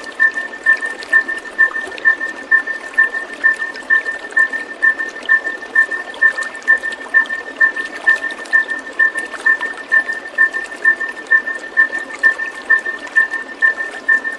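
Steady flowing water, with a high chirp repeating evenly about twice a second over it.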